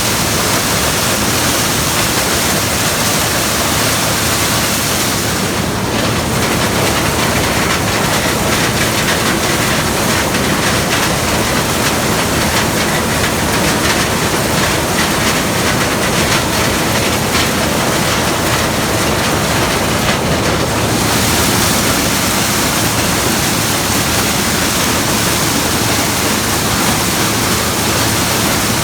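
Gleaner combine running steadily while harvesting corn: a dense, even machine noise with a low engine hum underneath. The hiss softens for a stretch in the middle and then comes back.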